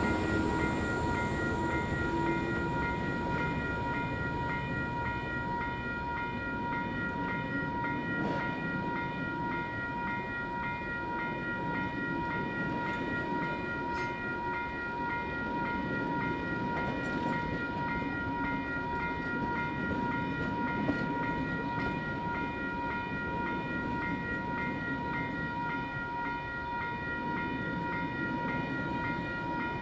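Heritage diesel-hauled passenger train running, its locomotive drone fading over the first few seconds, then a steady rumble. Several steady high ringing tones are held throughout.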